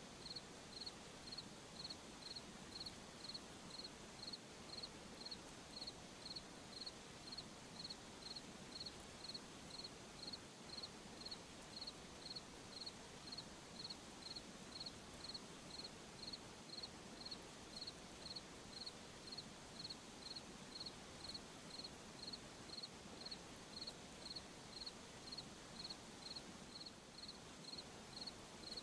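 Cricket chirping, a short high chirp repeating evenly about one and a half times a second, over a faint steady high hiss.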